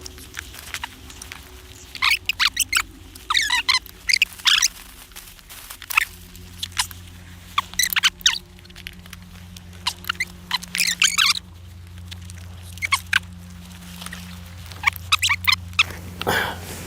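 Small birds chirping and trilling in short, quick, high-pitched phrases again and again, over a low steady hum.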